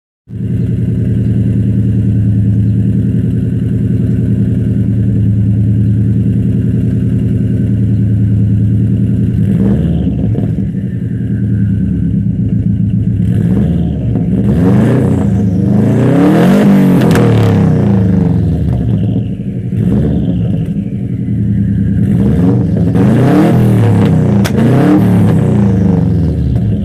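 Straight-piped 2002 Subaru WRX's turbocharged 2.0-litre flat-four, with no catalytic converters, idling steadily from a cold start, then revved several times from about ten seconds in, each rev rising and falling back to idle.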